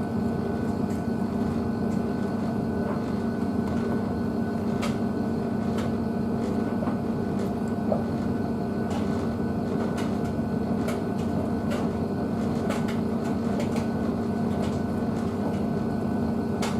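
Blomberg WNF9448 front-loading washing machine running its main wash: a steady hum with a faint constant whine and scattered light clicks.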